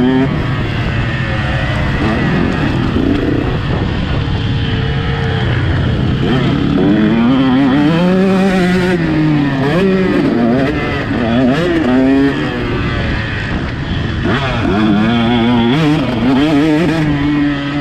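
Motocross bike engine on the track, revving up and dropping back again and again as it accelerates, shifts and brakes through the course.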